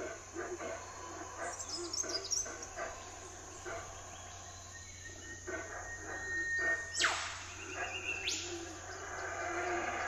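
Forest birds calling: scattered short chirps, a held whistled note about five seconds in, then a sharp downward-sweeping call about seven seconds in and a rising one just after eight.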